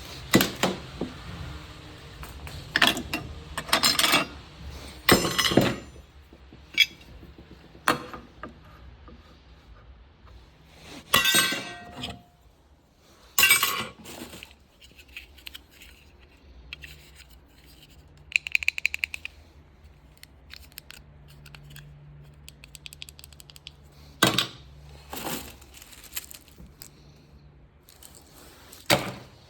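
Metal tools and hardware being handled: intermittent clinks, clanks and scrapes, with a short burst of rapid ticking about eighteen seconds in.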